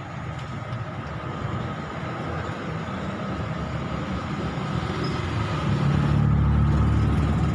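Road traffic noise, with a motor vehicle's engine rumble growing louder over the last couple of seconds as it comes close.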